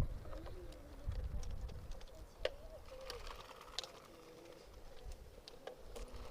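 Faint cooing of a pigeon-type bird, in soft wavering calls, with scattered sharp clicks and a low rumble underneath.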